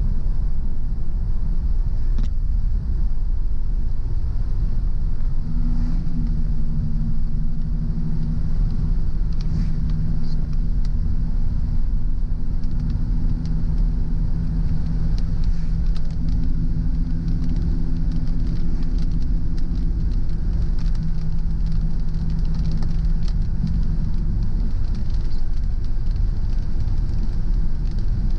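Car driving on a rain-wet road: a steady low rumble of engine and tyres, with a steady drone that comes in about five seconds in and fades out near the end.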